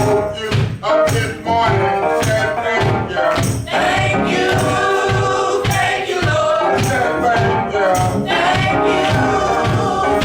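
Church praise music: singing voices over instruments with a steady beat of about two pulses a second.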